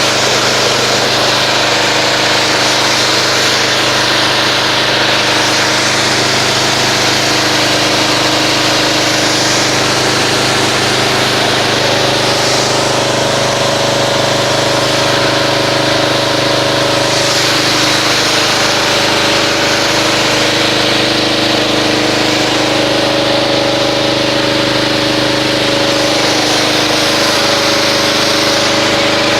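Pressure washer rinsing foam off a car: the washer's motor and pump running steadily, with the hiss of the water spray rising and falling.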